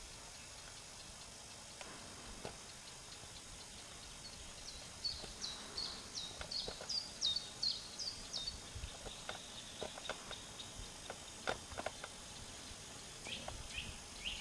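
A small bird singing runs of quick, repeated down-slurred notes, a little over two a second: one run starting about four seconds in, and a shorter, lower-pitched run near the end. Between the runs come scattered faint clicks and knocks over a low steady hiss.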